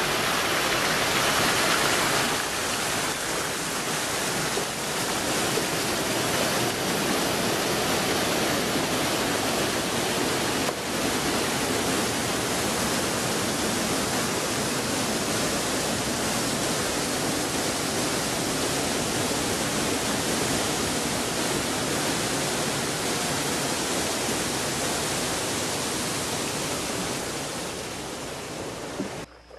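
Steady rush of flowing water, an even unbroken roar that cuts off suddenly near the end.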